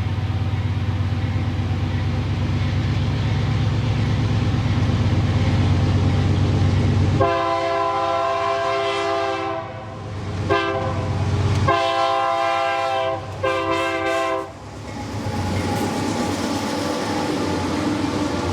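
Freight train with a diesel locomotive running by, a steady low engine rumble. About seven seconds in, the locomotive's multi-note air horn sounds four blasts: a long one, a very short one, then two more long ones. The train's rumble goes on after them.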